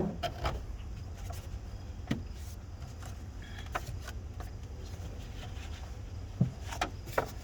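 Scattered clicks and knocks of plastic and metal parts as the engine's air cleaner housing is worked free and lifted out of the way, over a steady low hum.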